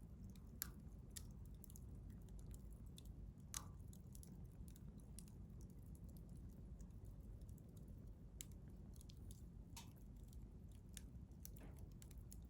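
Faint crackling of a burning wood fire: scattered sharp snaps and pops at irregular moments, two louder ones about half a second and three and a half seconds in, over a low steady rumble.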